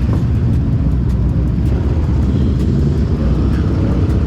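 Vehicle engines running with a steady, heavy low rumble.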